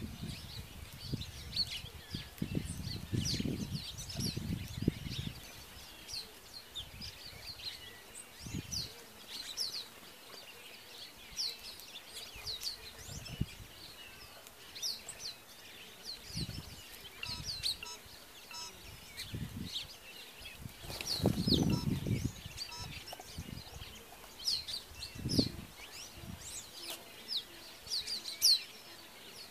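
Small wild birds chirping: many short, high, quick notes repeated throughout. Low rumbles at the start, about two-thirds of the way in and once more shortly after.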